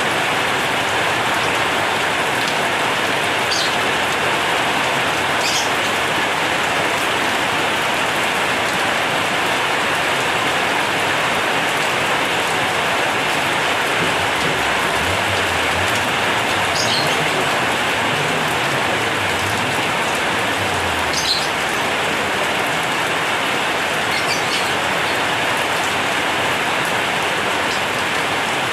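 Heavy rain drumming steadily on a corrugated zinc roof.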